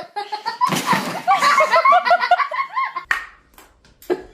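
A person laughing: a rapid run of short laughs after a burst of noise, dying away about three seconds in.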